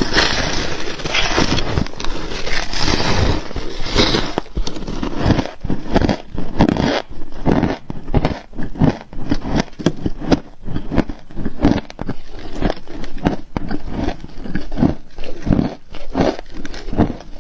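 Frost being bitten and chewed close to the microphone. There is dense, continuous crunching for the first four seconds or so, then a quick run of separate crunches with short gaps between them.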